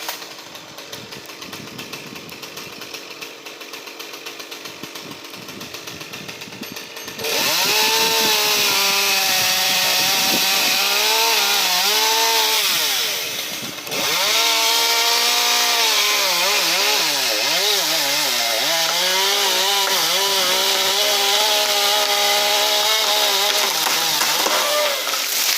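Chainsaw cutting into elm wood, its engine revving up and down under load. It is quieter for the first several seconds, then runs loud from about seven seconds in, with a brief drop in revs near the middle.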